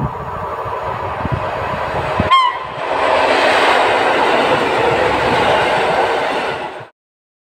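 Polregio electric multiple unit passing close by. A short horn toot sounds about two seconds in, followed by loud wheel and rail noise as the cars go past, which cuts off abruptly near the end.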